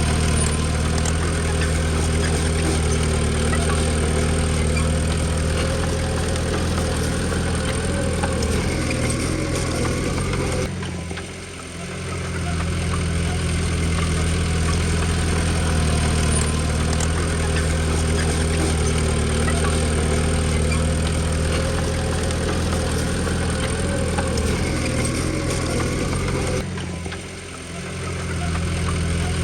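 Diesel engine of a Komatsu D20P bulldozer running steadily. The sound drops away abruptly twice, about 11 and 27 seconds in, and comes back within a second or so each time.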